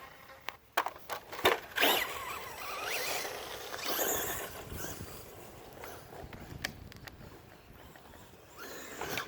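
Traxxas Rustler VXL RC truck driving: its brushless motor whines, rising and falling with the throttle, over tyre noise. A few sharp clicks come in the first second and a half.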